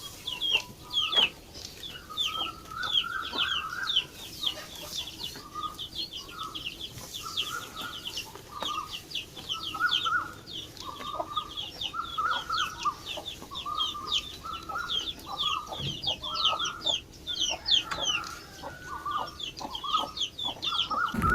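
Chickens: a constant stream of high, falling peeps, several a second, over shorter, lower clucking calls.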